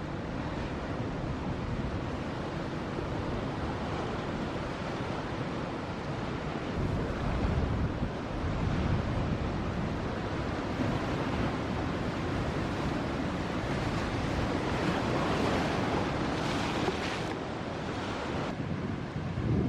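Ocean surf breaking and washing in a steady roar, with wind buffeting the microphone. The wash grows louder partway through, with a hissier surge near the end.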